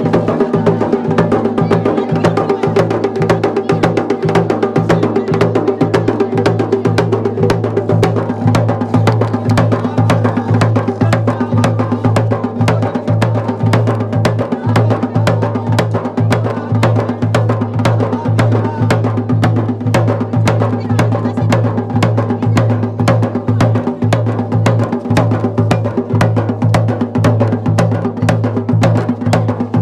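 Fast, steady drumming with many strikes a second, over a sustained low droning tone that holds throughout.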